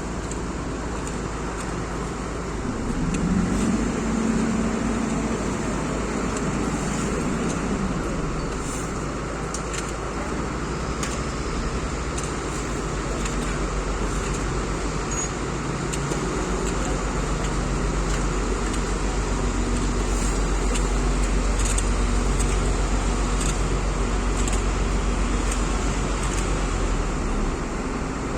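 Steady road traffic and engine noise, with an engine rising and growing louder about three seconds in and a low engine hum through the second half.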